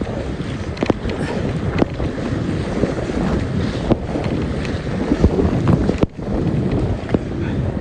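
Strong headwind buffeting the microphone in a steady low rumble, with a few sharp clicks scattered through it and a brief lull about six seconds in.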